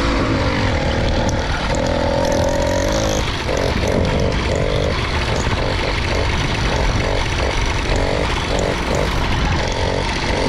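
Small motorbike engine running while riding, with wind rumble on the microphone; about three seconds in its note starts cutting in and out in a choppy stutter. The rider takes this to mean the bike has no power with its new sprocket.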